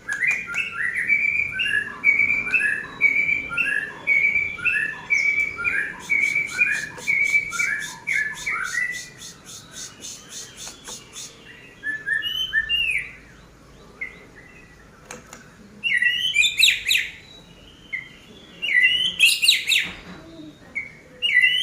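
White-rumped shama singing: a clear whistled phrase repeated about twice a second for the first nine seconds, then scattered short chips and ticks, and loud harsh rasping notes twice near the end.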